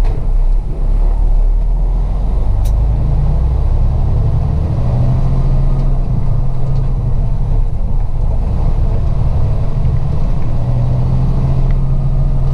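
Semi-truck's diesel engine running while driving, with road rumble, heard from inside the cab. The engine note rises and falls a few times.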